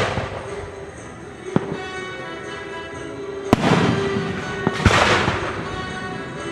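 Aerial fireworks bursting over orchestral music: a sharp bang about a second and a half in, then two louder bursts around the middle, each followed by a crackling fizz.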